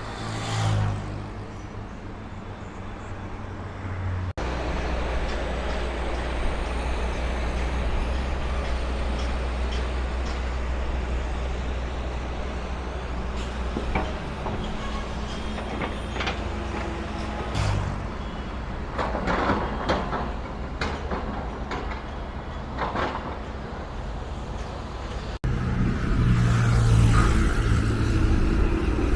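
Road traffic: vehicle engines running with a steady low rumble and louder passing noise, changing abruptly twice.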